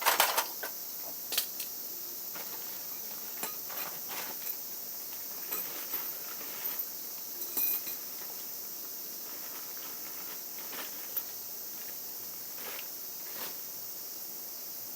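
Scattered metal clinks and knocks from hand tools and parts being handled during motorcycle work, a cluster at the start and irregular single taps after, over a steady high hiss.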